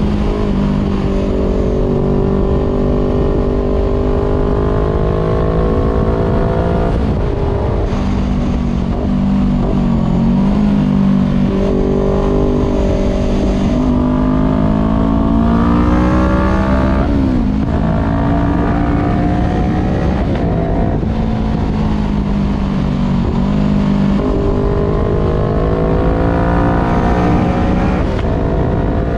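Voge 500R's parallel-twin engine, breathing through an open full exhaust with the dB killer removed, running under way. It pulls up through the revs, then drops sharply in pitch several times at gear changes, and eases off in between.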